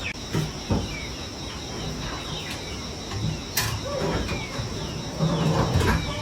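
Short falling bird chirps repeating over a steady high insect drone, with a few sharp knocks, the loudest about halfway through.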